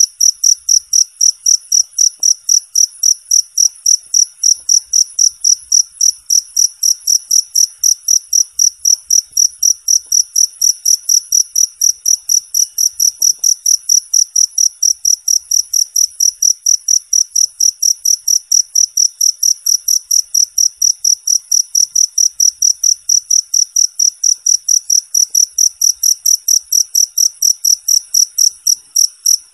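Cricket chirping steadily and loudly: a high, clear chirp repeated evenly about three times a second.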